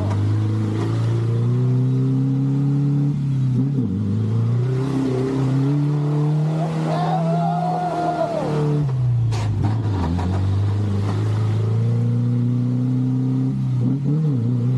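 Ford Ranger pickup's engine working hard through mud, its note dipping and climbing back several times as the revs change. A higher whine swells and fades midway, and a sharp knock comes about nine seconds in.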